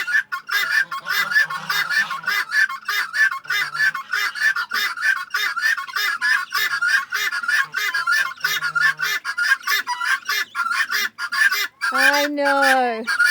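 Guinea fowl hens calling continuously: a rapid run of harsh, repeated notes, several a second, from more than one bird.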